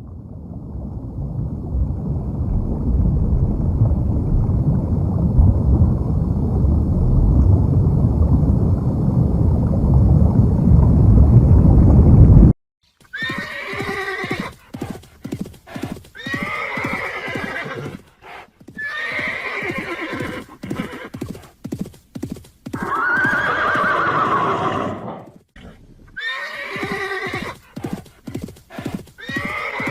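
A loud, low rumbling noise that builds for about twelve seconds and then cuts off suddenly. A horse follows, whinnying again and again over the clip-clop of its hooves.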